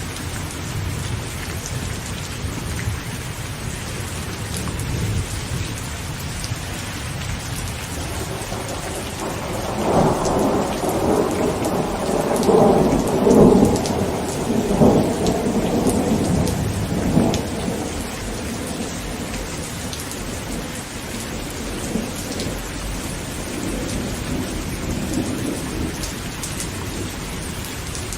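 Heavy rain falling steadily on a tent. About ten seconds in, a long roll of thunder builds up and rumbles for several seconds before fading. A fainter rumble of thunder follows later.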